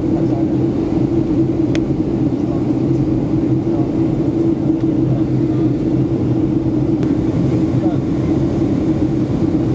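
Steady cabin noise inside a Boeing 757-200 airliner on descent: the engines' constant drone with a low hum and rushing airflow.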